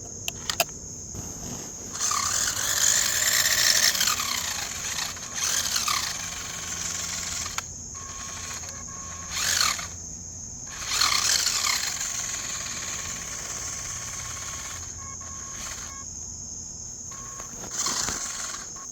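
Small electric motor of a toy RC car whirring in several bursts, its pitch rising and falling as it is throttled up and down, over steady chirping of crickets.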